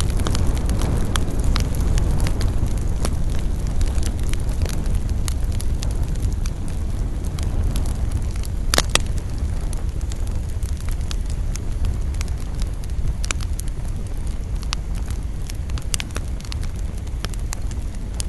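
Campfire burning: a steady low rush of flames under frequent sharp crackles and pops of the wood. The loudest pop comes about nine seconds in, and another sharp one near sixteen seconds.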